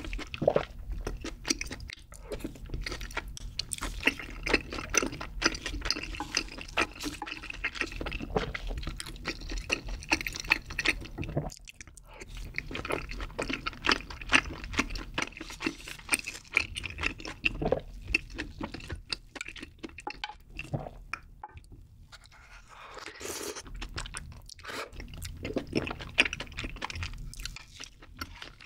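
Close-miked chewing of chewy rice cakes in a creamy carbonara sauce, with wet, sticky mouth sounds and a spoon scooping through the thick sauce in the dish.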